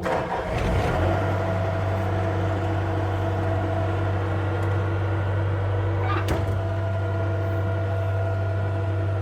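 Bobcat skid steer's engine running steadily, and about a second in a deeper, steady drone sets in as the hydraulics take load to raise the lift arms. A single short click comes about six seconds in.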